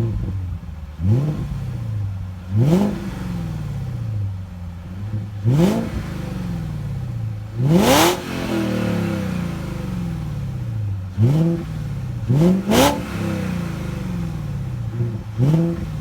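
A 2001 BMW 540i's 4.4-litre V8 with its rear mufflers deleted, blipped repeatedly from idle: about ten quick revs, each rising sharply and dropping slowly back to idle. The biggest rev comes about halfway through.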